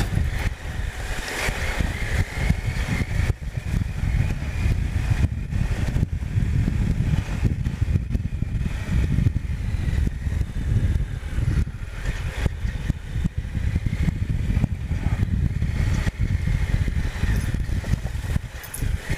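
Triumph Explorer 1215cc three-cylinder engine running while the bike rides a rough, bumpy byway: a steady low rumble with many short knocks and jolts throughout.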